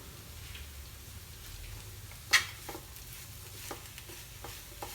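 Spoon stirring a thick potato, egg and breadcrumb mixture in a pan on the stove, with a low sizzle and a few knocks of the spoon against the pan, the loudest a little over two seconds in.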